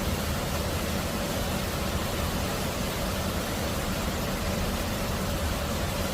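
Steady rain falling, an even hiss with no breaks, over a low steady rumble.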